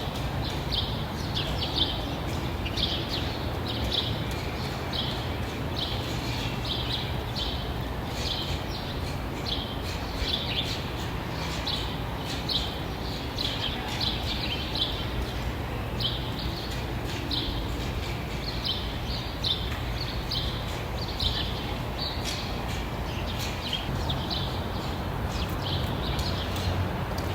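Birds chirping: short, high chirps repeated about twice a second without pause, over a steady low rumble.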